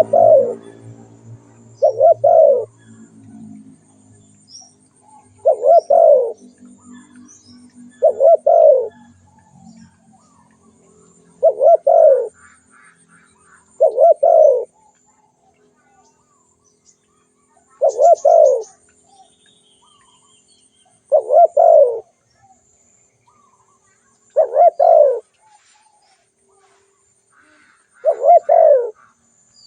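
Spotted dove cooing: a short phrase of low coos, repeated ten times at intervals of about two to three and a half seconds. Faint high chirps of small birds sound between the phrases.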